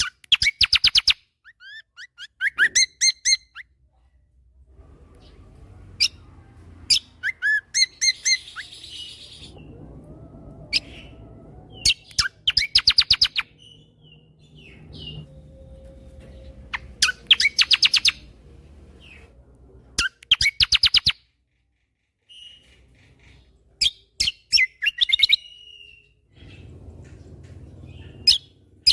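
Kecial kombo (cucak kombo) songbird singing in rapid-fire 'tembakan' bursts: quick series of sharp, high chirping notes, each burst about a second long, repeated after short pauses, with a faint low rumble between some bursts.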